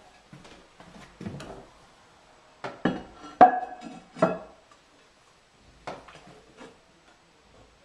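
Ceramic toilet tank parts, most likely the porcelain tank lid, being handled and set down: a run of hard clinks and knocks. The loudest comes about three and a half seconds in with a brief ring, and a few fainter knocks follow near the end.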